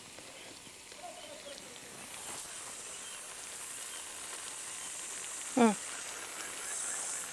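Outdoor field ambience: a steady high-pitched hiss that grows louder about two seconds in. About five and a half seconds in there is one short, loud, wavering call.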